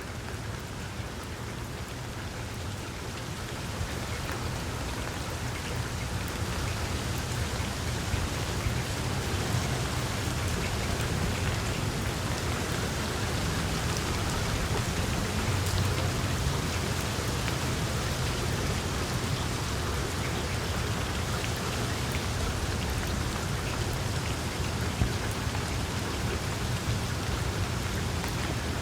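Small wood fire crackling in a fireplace: dense, fine pops and snaps over a steady low rumble of flame, growing slightly louder over the first few seconds.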